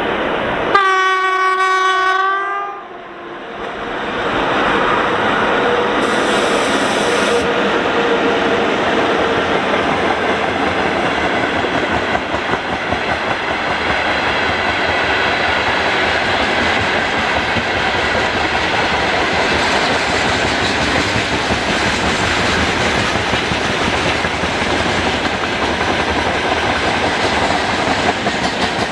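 An electric locomotive's horn sounds one blast of about two seconds, then a freight train rolls past in a long, steady noise.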